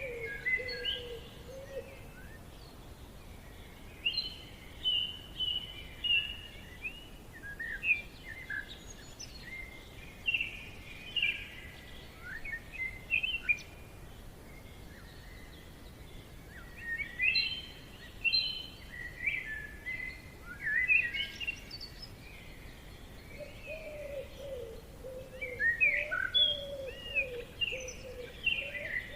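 Forest birdsong: several birds calling and singing in short chirping, warbling phrases, coming in bursts with brief lulls between. A lower, wavering call joins in near the start and again for the last few seconds.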